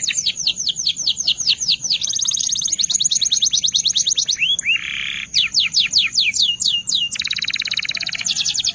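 Belgian canary singing a rapid song of high, repeated downward-sweeping notes, several a second, moving through phrases: a short lower buzzy phrase about halfway through, then a very fast trill.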